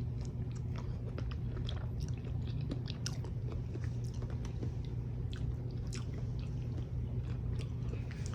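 Close-up mouth sounds of a person chewing a breakfast burrito: irregular small wet clicks and crunches as she bites and chews, over a steady low hum.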